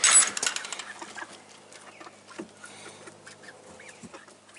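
Chickens clucking, after a brief clatter of knocks in the first second.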